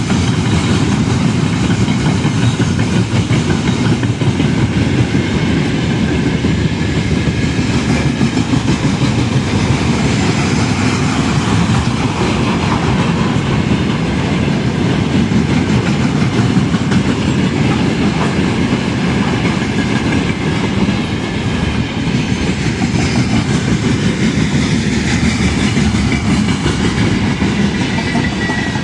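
Train rolling past: the wheels of a long string of cars running over the rails, loud and steady throughout.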